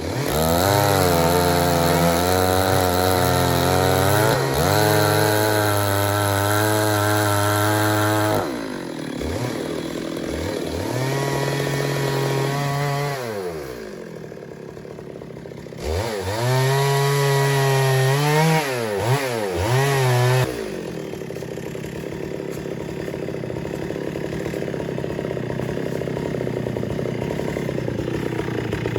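Stihl MS 382 two-stroke chainsaw held at high revs for about eight seconds, its pitch dipping briefly now and then. It then drops to idle and is revved up twice more, the second time for about four seconds, before settling back to a steady idle.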